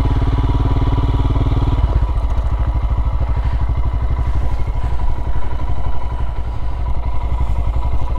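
Royal Enfield Himalayan motorcycle's single-cylinder engine running as the bike rides along at low speed. Its note changes about two seconds in.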